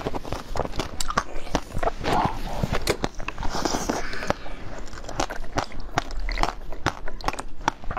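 Close-miked biting and chewing of a frozen passion-fruit treat: a dense, steady run of crisp crunching clicks.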